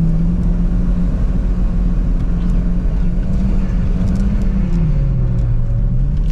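Car engine held at high revs under throttle while drifting on lake ice, with a steady rumble beneath it; the revs drop about five seconds in, then pick up again.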